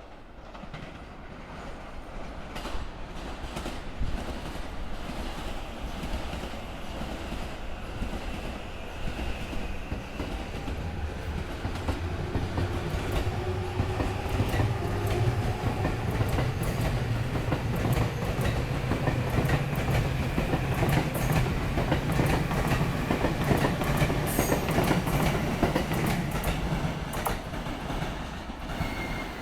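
Electric commuter train running over rail joints: a rumble that builds over the first few seconds, with many sharp joint clacks as the wheels strike the rail gaps, and a faint changing whine from the train on top.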